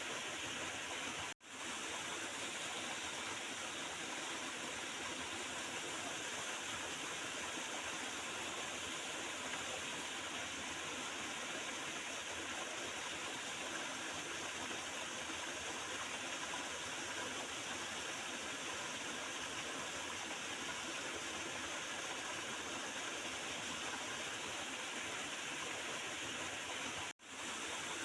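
Small river gurgling and rushing in a steady, even flow. The sound cuts out for an instant twice, about a second and a half in and again near the end.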